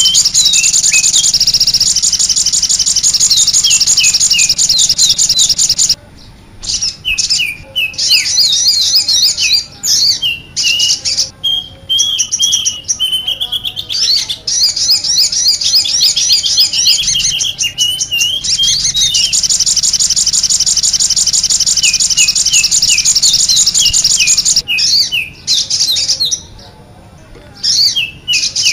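A dense chorus of many small birds chirping and twittering fast and high-pitched: a bird-lure call recording played to draw small wild birds in. The chorus breaks off abruptly about six seconds in and again briefly near the end.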